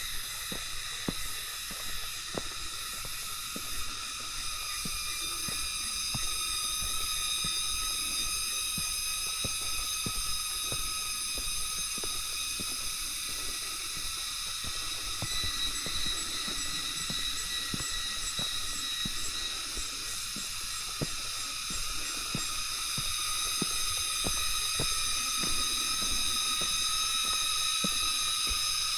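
Steady chorus of forest insects, a high buzzing and shrilling at several pitches at once, with soft irregular knocks underneath.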